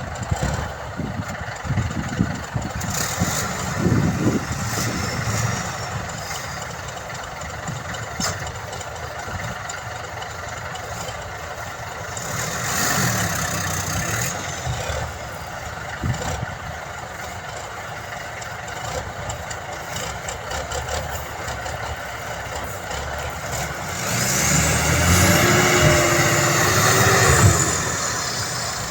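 Diesel engine of heavy earthmoving machinery working, with a few clanks in the first seconds; about 24 seconds in it revs up louder, the pitch rising and then falling back after a few seconds.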